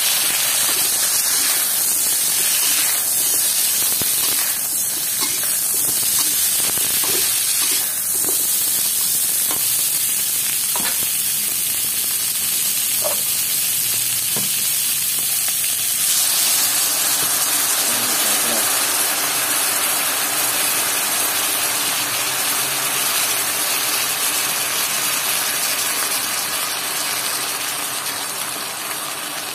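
Baby corn sizzling in hot oil in a metal wok, with a metal spatula scraping and tapping the pan in short clicks during the first half. About halfway through the sizzle grows fuller and thicker as oyster sauce hits the hot wok and steams.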